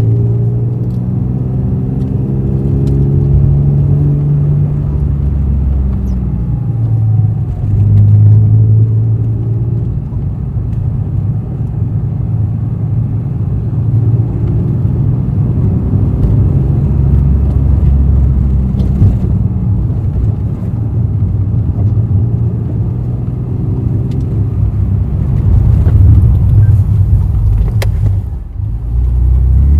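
Honda NSX's V6 engine running through an aftermarket all-titanium exhaust while the car is driven. Its low engine note rises and falls several times with the throttle and speed, and briefly drops away near the end.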